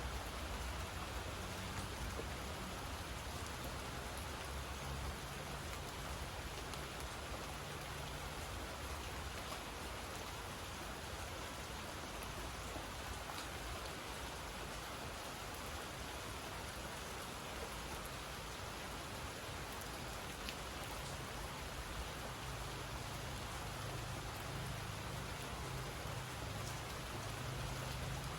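Steady rain falling, an even hiss of drops that does not let up, with a low rumble underneath in the first third and again near the end.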